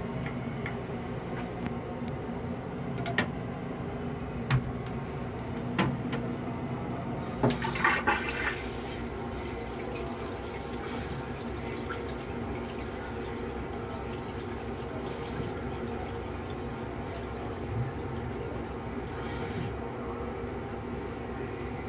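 Metro-North M3 railcar toilet being flushed: a few sharp clicks and knocks, then about eight seconds in the flush starts with a rush of water that runs for roughly twelve seconds before dying away. A steady hum from the railcar runs underneath.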